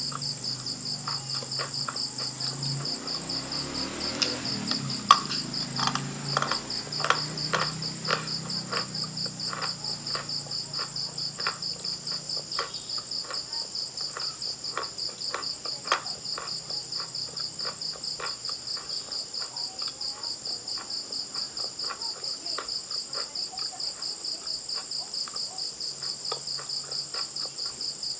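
Crickets chirping in a fast, steady trill throughout. Over it come crisp crunching and chewing clicks, thickest in the first half and sparser after.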